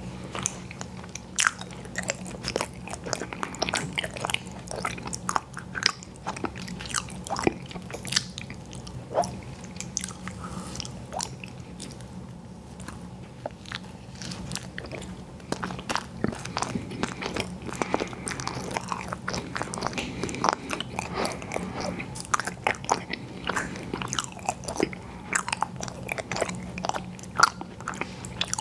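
Close-miked mouth sounds of a person biting and chewing ice cream sandwiches, with many irregular wet clicks and smacks. A faint steady low hum sits underneath.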